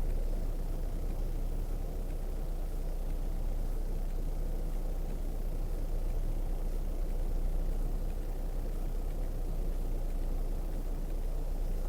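Vehicle engine running steadily as a constant low drone, with no change in pitch or level.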